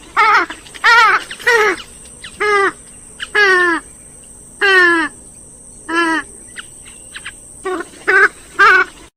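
Grey-headed swamphen calling: a loud series of about a dozen short, wavering calls, some in quick runs and some falling in pitch.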